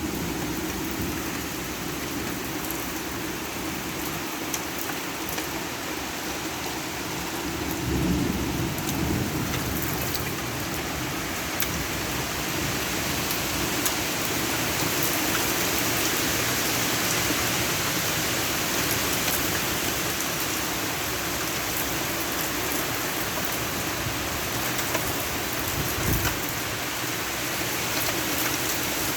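Heavy rain pouring steadily in a thunderstorm, with low rumbles swelling about eight seconds in and again near the end.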